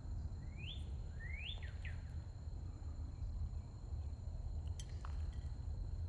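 Wild bird calling: two rising whistled notes about a second apart, the second trailing into short falling notes, over a steady low rumble. A few faint clicks follow near the end.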